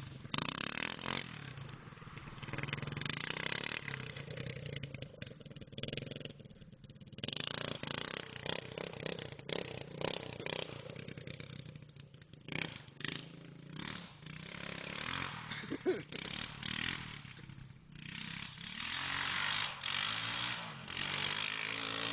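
Honda 200X single-cylinder engine in a Kawasaki off-road machine running while it is ridden, the revs rising and falling. It revs up more strongly near the end.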